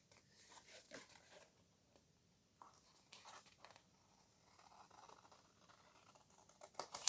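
Faint snips and rustles of paper being carefully trimmed, with a few light clicks near the end.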